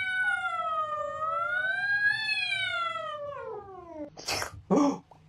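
A cat giving one long, drawn-out yowl that wavers in pitch and slides down as it fades. Near the end come two short noisy bursts.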